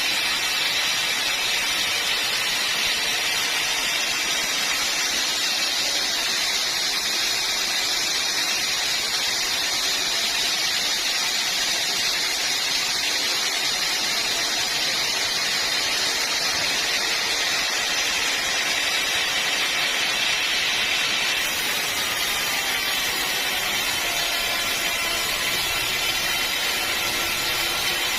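Sawmill saw cutting through hard acacia wood: a steady, high-pitched hissing whine that goes on without a break, its tone changing about two-thirds of the way through.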